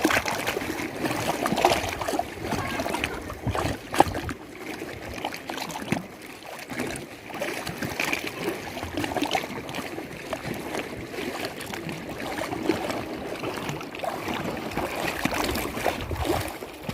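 Lake Toba water lapping and sloshing unevenly, with many small irregular splashes and a sharper slap about four seconds in.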